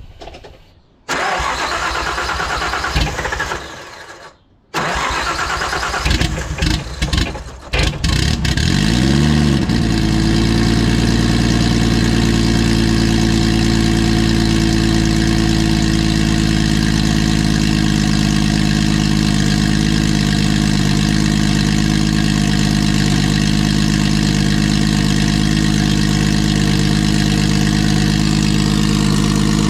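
Nissan RB20DET turbocharged straight-six cranked on the starter twice, catching about eight seconds in with a brief rise in revs, then settling into a steady idle. It now runs on all six cylinders after a faulty lifter that held cylinder 5's intake valve open was replaced.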